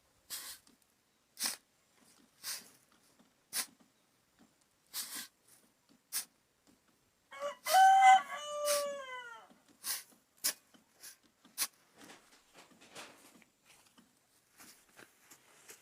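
A rooster crows once about halfway through, a long call that bends down in pitch at its end and is the loudest sound. Around it, short sharp scraping or tapping strokes come about once a second, a little faster after the crow.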